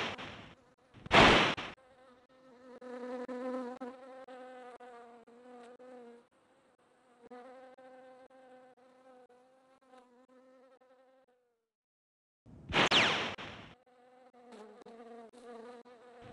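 A fly buzzing with a wavering hum, passing loudly close by about a second in and twice more near the end, and falling briefly silent about three quarters of the way through.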